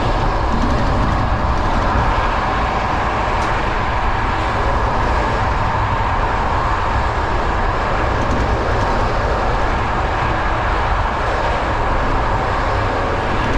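Steady running noise of a BDZ passenger train on the move: wheels on the rails and rushing air, heard through an open carriage window.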